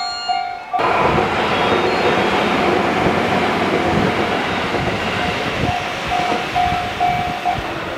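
Electric train running past close along a station platform, a steady rush and rumble of wheels on rails that starts suddenly about a second in.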